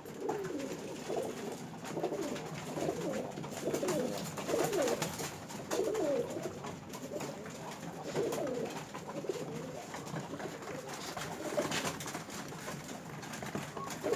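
Several pigeons cooing over one another in repeated, overlapping low calls, with light clicks and taps scattered throughout.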